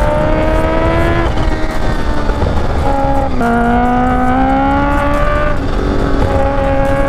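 Kawasaki H2's supercharged inline-four accelerating hard, its pitch climbing steadily through each gear and dropping at each quick upshift, several shifts in a few seconds, over heavy wind rush.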